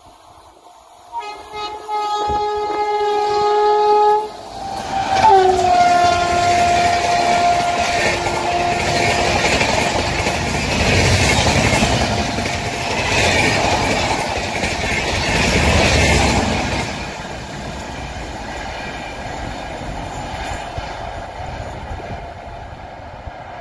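Indian Railways locomotive horn sounding a long blast, then a second held blast that drops in pitch as the train approaches and passes. An express of blue passenger coaches then runs through at speed with a loud rush and wheel clatter, which eases off in the last few seconds.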